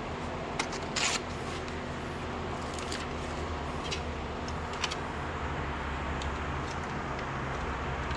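Steady low mechanical hum with a few brief clicks and rustles of hands handling material, one slightly longer scrape or rip about a second in.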